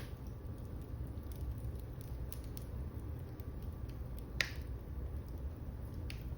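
Wood fire burning in a fireplace: a steady low rumble of the flames with scattered sharp crackles. The loudest pop comes a little past halfway, and another comes near the end.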